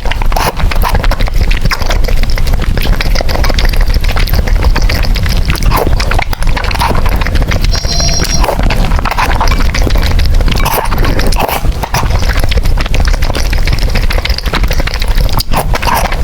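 Close-miked eating sounds of spicy noodles: continuous wet chewing and slurping with many small clicks.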